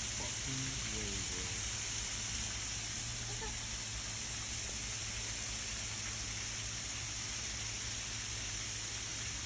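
Steady, even hiss of heavy rain coming down, with a faint voice briefly in the first second or so.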